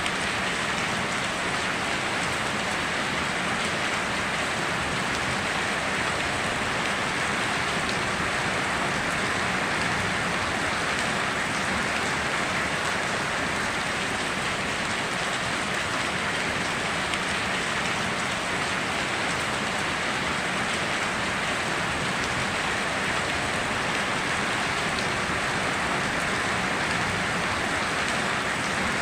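Steady rain falling, an even hiss of drops that neither builds nor eases, with no thunder.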